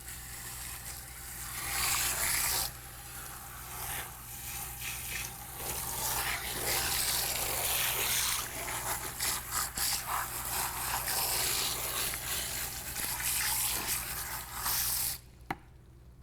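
Running water rinsing conditioner out of wet hair, the splashing rising and falling as the water is moved over the head. It cuts off suddenly near the end, and a single click follows.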